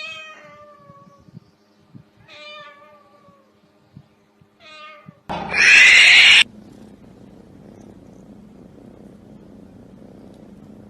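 Cat meowing three times, each call falling in pitch, then a loud harsh sound lasting about a second, followed by a faint steady noise.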